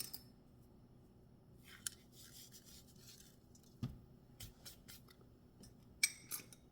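Dried Italian seasoning shaken from a spice shaker, a soft faint rustle, with a soft knock about four seconds in and a few light kitchen clicks near the end.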